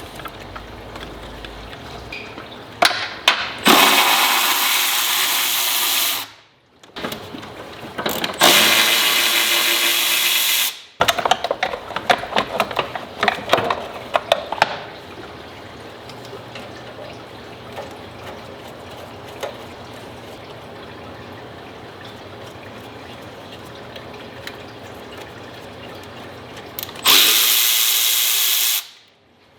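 A power tool runs in three loud bursts of a couple of seconds each, with a run of clicks and rattles just after the second burst.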